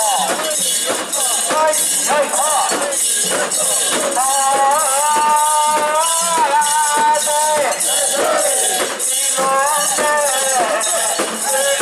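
Mikoshi procession: a steady metallic jangling of about two to three strokes a second, the portable shrine's metal rings and fittings shaken in time as it is carried, under a group of voices chanting and singing, with one long held note in the middle.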